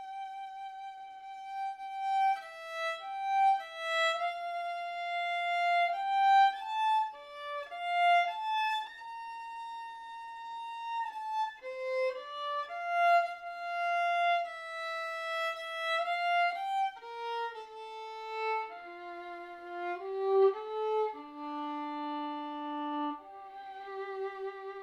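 Solo violin playing a slow melody of long held notes with vibrato, moving into a lower register in its last part, as closing music.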